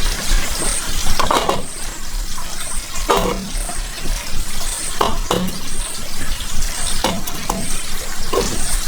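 Running and splashing water, with a sloshing or handling sound about every two seconds.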